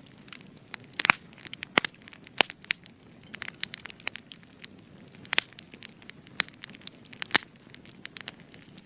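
Wood fire crackling: irregular sharp pops and snaps, a few louder ones standing out, over a faint low hiss of the burning.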